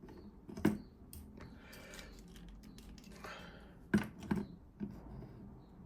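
Hard plastic toy figures clicking and tapping as they are handled and set down on a surface. There are a few sharp clacks: one a little before a second in, and a quick cluster of three around four to five seconds in.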